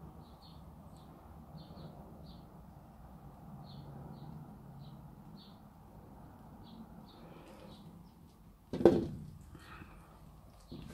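A small bird chirping, in repeated short high calls over a low steady hum. About nine seconds in comes a loud single thump, and near the end a lighter knock.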